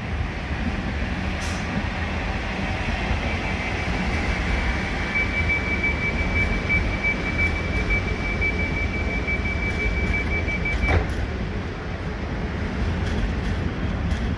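A train running at the station with a steady low rumble. A single steady high whine starts about three seconds in and cuts off suddenly with a click about eleven seconds in.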